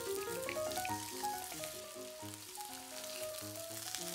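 Salmon fillets frying in hot vegetable oil in a frying pan: a steady sizzle with small crackles. Background music plays along with it.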